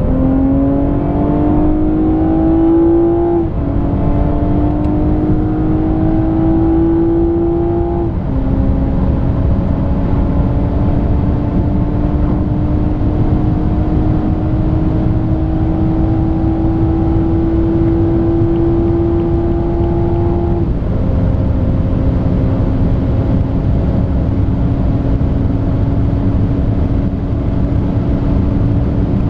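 BMW 340i's 3.0-litre turbocharged straight-six under full-throttle acceleration at high speed, heard from inside the cabin: the engine note climbs steadily and drops three times as the gearbox upshifts, about three and a half, eight and twenty-one seconds in. Each gear pulls longer than the last, over a steady rush of wind and tyre noise.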